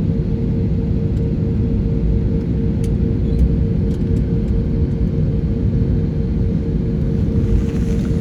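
Airliner cabin noise: a steady, loud low rumble of the engines and airflow with a constant hum on top, and a few faint ticks.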